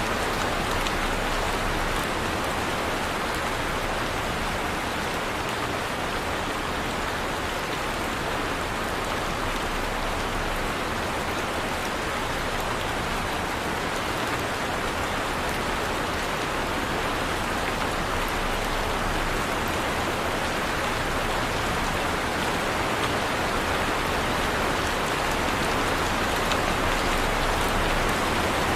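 Heavy rain falling steadily, a dense even hiss of drops hitting surfaces with fine pattering ticks and no lulls.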